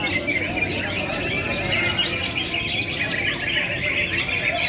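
Many songbirds chirping and calling at once in a dense, continuous chorus of short overlapping chirps.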